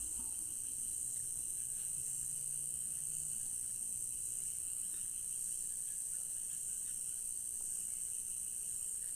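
Night chorus of crickets and other insects: a steady, unbroken high-pitched trill with fainter lower trills beneath it.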